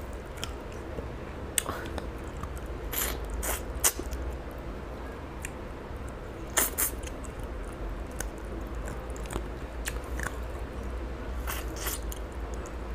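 A person chewing and smacking his lips while eating rice and fish curry by hand, with short wet mouth clicks every few seconds.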